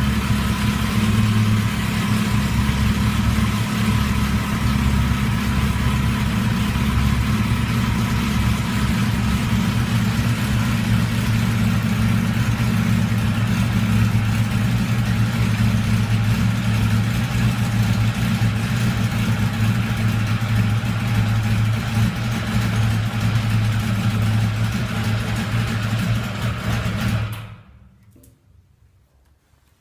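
1985 Yamaha XJ700N's air-cooled inline-four engine running steadily at idle, then shut off about 27 seconds in, leaving near quiet.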